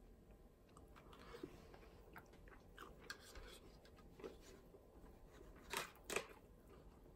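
Faint mouth sounds of chewing fried rice, with small scattered clicks. Near the end come two sharper clicks of a plastic spoon knocking against a plastic cup as pickled radish cubes are scooped up.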